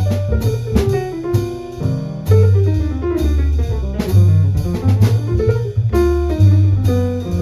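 Jazz piano solo with bass and drum kit accompanying: piano lines over steady low bass notes, with regular cymbal and drum strokes.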